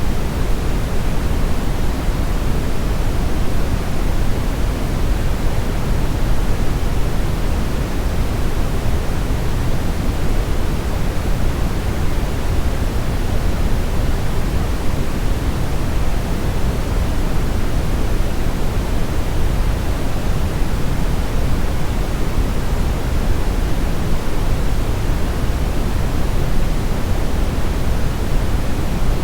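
Steady brown noise: an even, deep rushing hiss with most of its weight in the bass, unchanging throughout.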